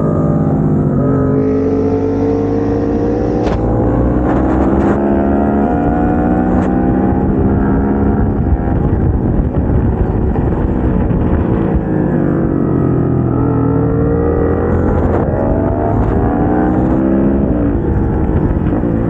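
KTM 690 SMC-R's single-cylinder engine heard onboard at track pace: revs climb through several quick upshifts, drop away with downshifts around the middle, then climb again and fall back near the end.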